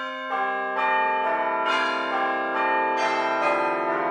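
Bells ringing a run of notes, a new note struck about twice a second, each ringing on beneath the next.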